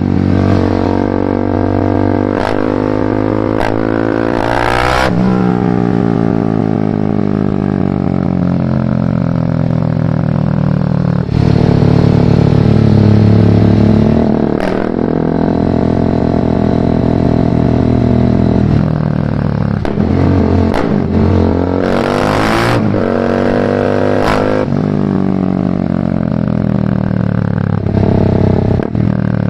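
BMW G310R's single-cylinder engine through a full Mivv exhaust, riding on the road. It revs up through several quick gear changes in the first few seconds, then drops in pitch as the throttle closes. More runs of acceleration and shifts come around the middle, and a long slowdown comes near the end.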